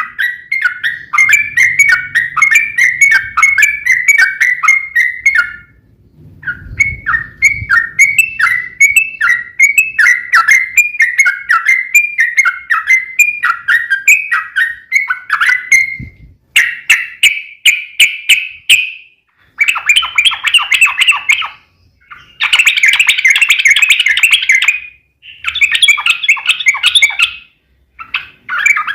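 Yellow-vented bulbul (trucuk) singing a long rapid-fire song of quick, bubbly notes. In the first half it runs on with one short break; in the second half it comes in shorter, denser, harsher chattering bursts with brief pauses between them.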